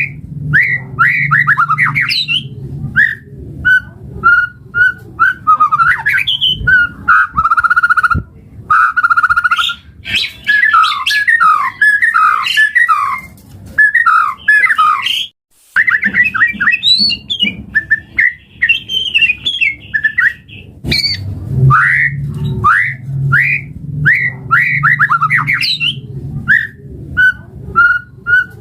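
White-rumped shama (murai batu) singing a fast, varied song of whistled glides and trills, with a brief break about halfway through.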